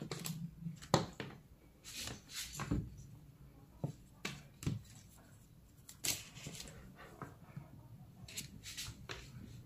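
Light clicks and rustles, a dozen or so scattered short ones, of a charger's power cord and multimeter probes being handled during a continuity check.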